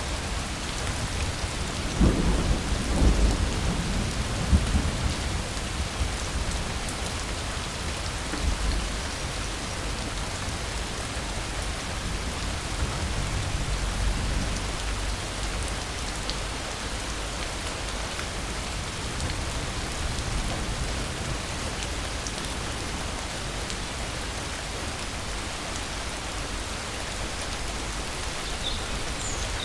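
Steady rain falling, with a roll of thunder rumbling in about two seconds in and fading over a few seconds, then fainter distant rumbles later.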